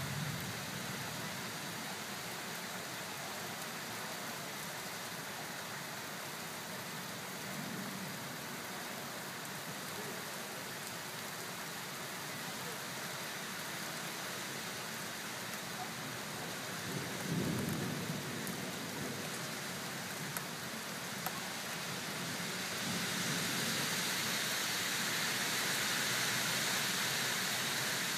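Steady rain falling on wet pavement, with a low rumble of thunder about two thirds of the way through. The rain grows louder near the end.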